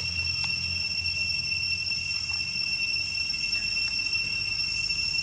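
Steady, high-pitched drone of jungle insects holding one even pitch, over a low rumble that eases about two seconds in.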